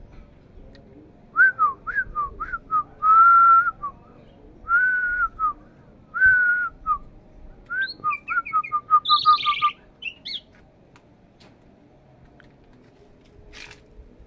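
Starling singing: a run of clear whistled notes, some short and some held, then a quick string of short whistles and a harsher, higher call about nine seconds in.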